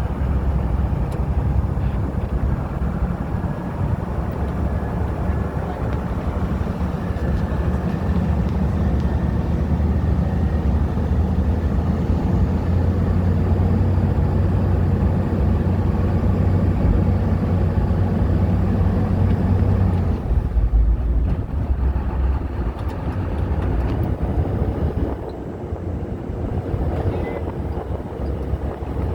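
Amphibious duck boat's engine running with a steady low drone. About 20 seconds in the drone eases off, and the sound is quieter from then on.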